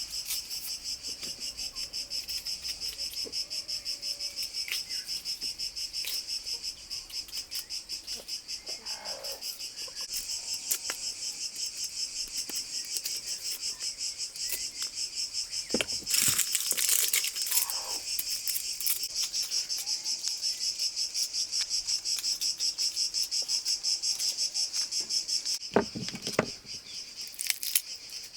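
Crickets chirping in a steady, rapidly pulsing trill. A few short knocks come about midway and again near the end.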